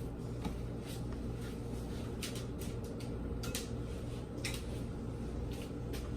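Seasoned chicken pieces frying in hot vegetable oil in a pot: a steady sizzle with scattered crackles and pops, over a steady low hum.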